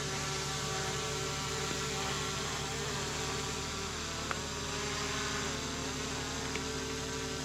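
Multi-rotor camera drone hovering, its propellers giving a steady buzzing whine made of several tones that waver up and down in pitch about halfway through.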